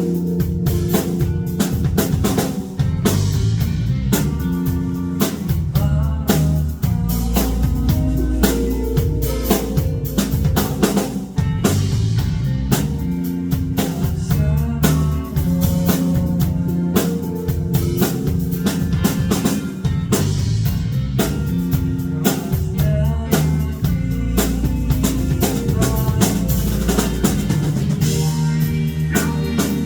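Live rock band playing, with a drum kit keeping a steady beat under guitar and strong low bass notes.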